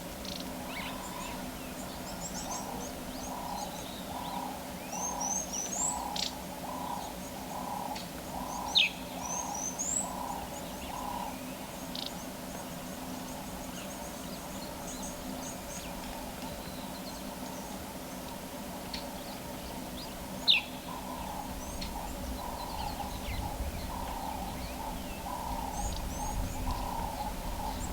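Wild birds calling: clusters of high chirps, two sharp falling whistles that stand out as the loudest sounds, and a lower note repeated about twice a second for long stretches.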